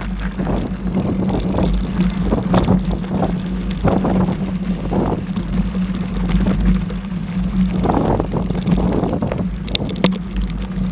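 Mountain bike being ridden along a dirt trail: tyre and drivetrain noise with a steady hum and irregular rattles, and a few sharp clicks near the end.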